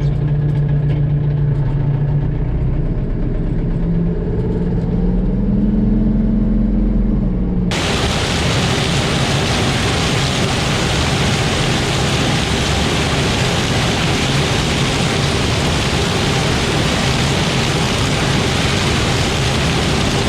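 Tractor engine running, its pitch rising for a few seconds as it speeds up. About eight seconds in, the sound cuts abruptly to a loud, steady hiss with the engine's hum underneath.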